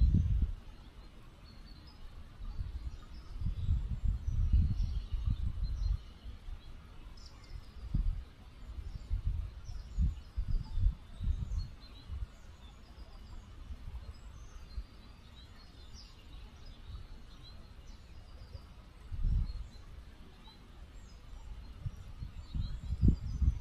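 Small river flowing with a faint steady rush, while birds chirp in short high calls throughout. Low rumbling gusts come and go, loudest near the start, about a quarter of the way in, around the middle and near the end.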